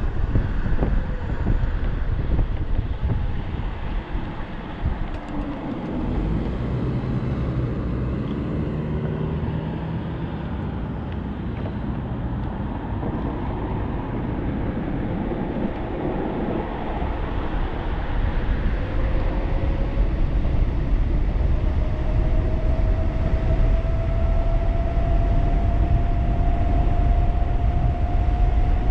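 Wind rushing over the microphone with tyre noise from an e-bike riding at speed. A 1500-watt Leaf Bike hub motor whines, rising slowly in pitch over the last ten seconds as the bike speeds up.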